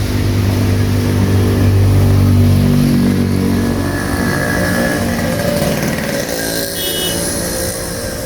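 A motor vehicle's engine passing close along a rain-soaked street, loudest about two seconds in and then fading away, over the steady hiss of heavy rain.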